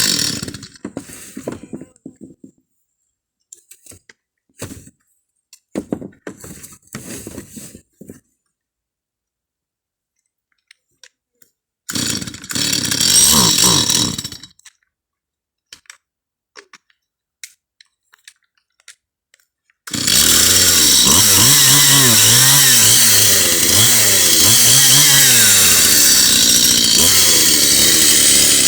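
Chainsaw running and dying away, then handling knocks, a brief run about twelve seconds in, and from about twenty seconds in, steady running with the revs rising and falling as it cuts roofing underlay sheets.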